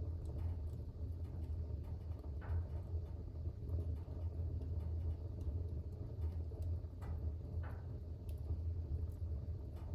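Fire burning in a fireplace: a steady low rumble of the flames with a few short crackles, about four scattered through.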